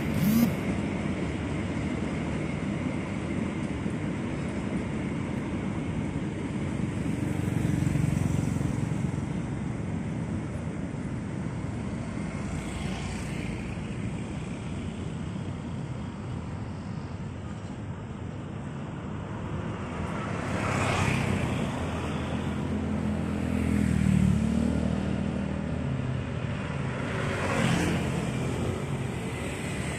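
A passenger train rolling past with a steady low rumble, mixed with road traffic. Motorcycles pass close by with rising and falling whooshes, the loudest about two-thirds of the way in and near the end.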